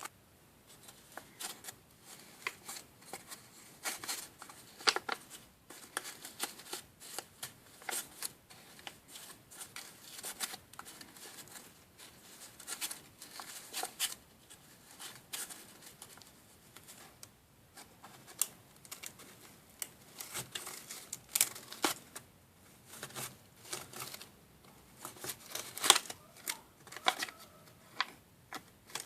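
Irregular small clicks, taps and crinkles of hands handling the plastic parts of a DIY candy-making kit: trays, packets and a small spoon.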